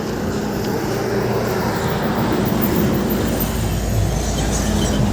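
Skoda Laura engine running steadily, a car with a white-smoke and engine-knocking problem.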